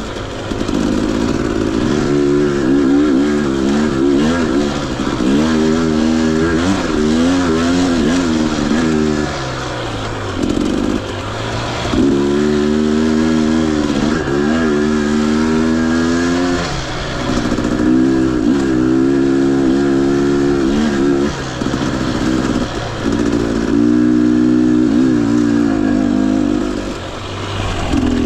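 Husqvarna TE250i fuel-injected two-stroke dirt bike engine revving up and down over and over as the throttle is opened and closed while riding, with brief drops to a lower engine note a few times.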